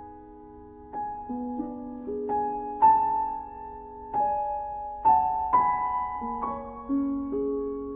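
Background music: a slow, gentle piano melody, single notes and soft chords struck one after another and left to ring.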